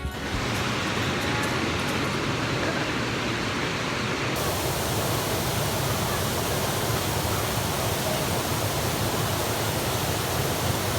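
Steady rush of a waterfall on a river: constant falling-water noise that grows brighter about four seconds in.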